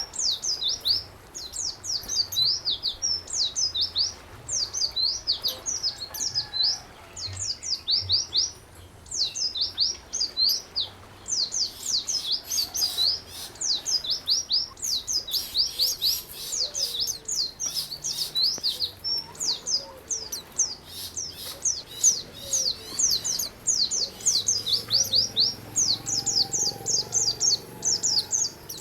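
A songbird singing a fast, continuous chatter of high, downward-sweeping chirps in quick runs, with brief gaps between phrases.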